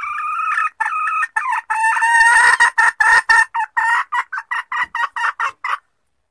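Hen jungle fowl calling: a drawn-out note that breaks into a quick run of short clucks, about three a second, and stops abruptly near the end. It is the hen's call that lures a wild cock out of hiding.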